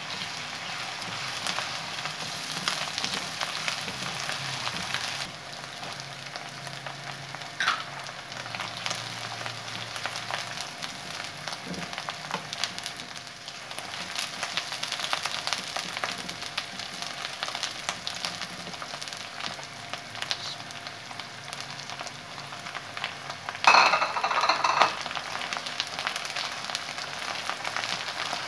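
Sliced onions sizzling and crackling as they fry in oil in a wok, stirred with a plastic spatula. A loud burst of sizzling, lasting about a second, comes about three-quarters of the way through as raw minced meat goes into the hot oil.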